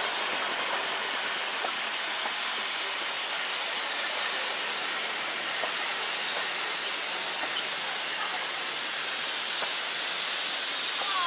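Vintage passenger coaches of a steam train rolling past on the rails, a steady wheel-on-rail noise with steam hissing from under the last coach.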